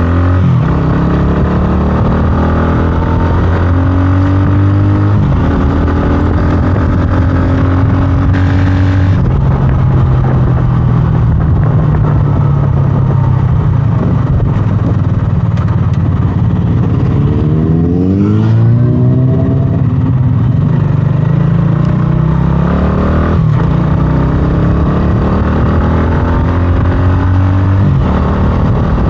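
125cc scrambler motorcycle engine under way, its pitch climbing as it accelerates and dropping back at gear changes several times.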